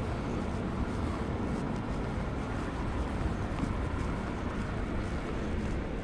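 Steady low rumble of a vehicle running, with an even noise that doesn't change.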